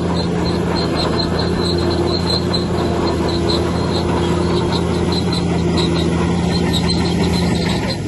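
Bulldozer's diesel engine running steadily under load, with a high squeak repeating a few times a second from its crawler tracks. The engine note changes just before the end.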